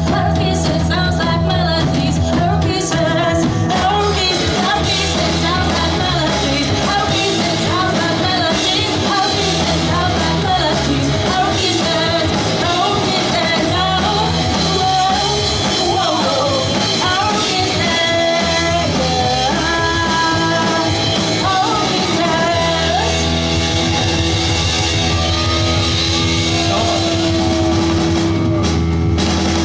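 Live pop-punk band playing a song: full band with drums, bass and guitars under a sung lead vocal, loud and continuous.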